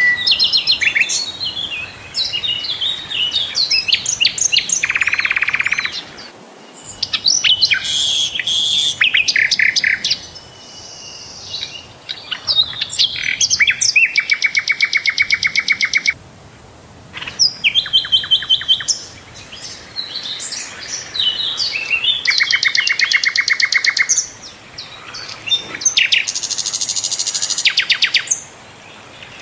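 Sikatan londo flycatcher singing a loud, varied song. It mixes quick chattering notes and short whistles with fast buzzy rattles of a second or two, in phrases broken by brief pauses.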